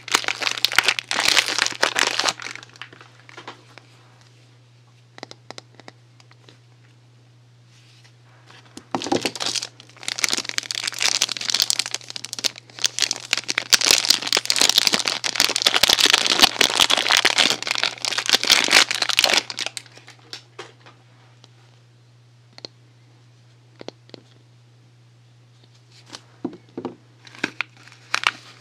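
Soap packaging being unwrapped by hand: wrapper crinkling and tearing in bursts, with quiet stretches of a few light clicks and taps between. A faint steady low hum runs underneath.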